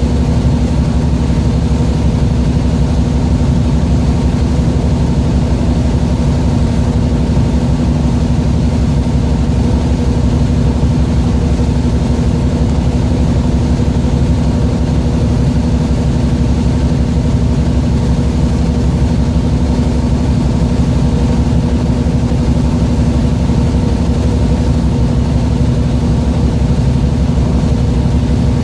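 A boat's engine running steadily with a constant low drone and hum.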